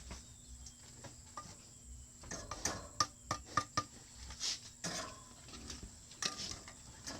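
Irregular light knocks and metallic clinks, several ringing briefly, bunched together about two to four seconds in, with scattered softer knocks before and after.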